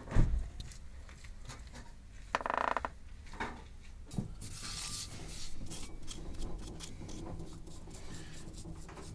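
Tools and metal brake parts being handled during a drum brake strip-down: a heavy thump at the start, a short buzzing rattle about two and a half seconds in, a knock, then a brief hiss and scattered small clinks.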